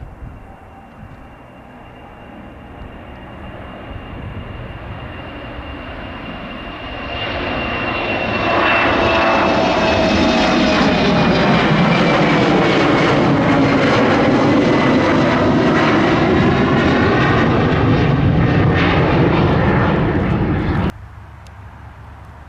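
Embraer E195 jet on takeoff, its two turbofan engines growing louder as it approaches and passes, with a whine that slowly falls in pitch. The sound cuts off abruptly near the end.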